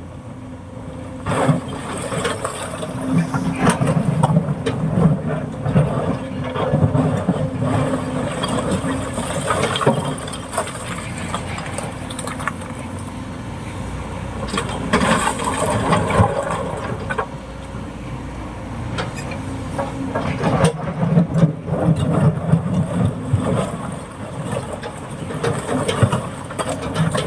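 Heavy excavator's diesel engine running and working under load, its level rising and falling, with scattered clunks.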